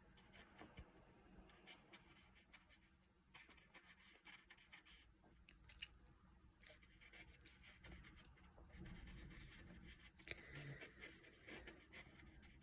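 Faint scratchy ticks and soft rubs of a large paintbrush dabbing and stroking on watercolour paper, close to near silence.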